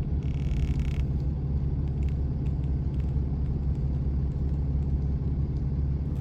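Steady low rumble of a truck's engine and tyres heard from inside the cab while driving, with a brief hiss in the first second and a few faint ticks.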